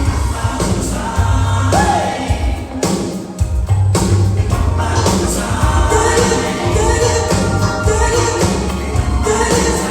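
Live pop band playing with singing, loud, with a strong bass line; the bass drops out for about a second around three seconds in, then the full band comes back in.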